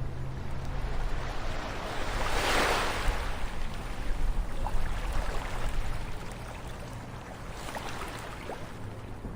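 Ocean waves washing onto a shore. One wave breaks and swells to a loud hiss about two and a half seconds in, and a smaller one follows near the end, over a steady low rumble of surf.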